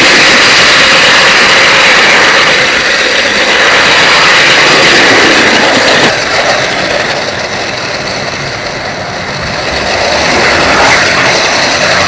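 Model train running along the track, a steady mechanical running noise of its motor and wheels on the rails, heard close up. The noise gets a little quieter about halfway and picks up again near the end.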